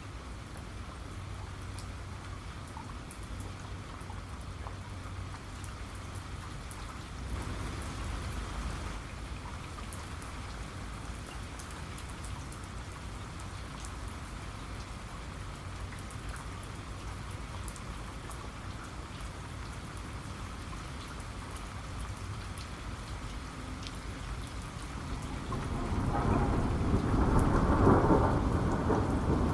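Steady rain falling, with a low rumble of thunder about seven seconds in and a louder, longer roll of thunder building up near the end.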